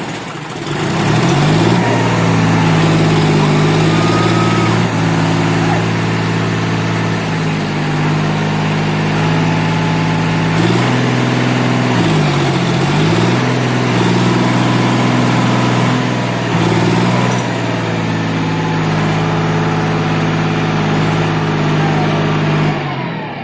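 Tractor's diesel engine running steadily under load, its speed shifting now and then and dipping briefly about halfway through before picking up again.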